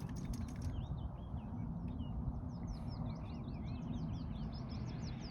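A songbird singing a fast, unbroken run of high chirps and trills that starts about a second in, over a low rumble of wind on the microphone. A few sharp clicks come right at the start.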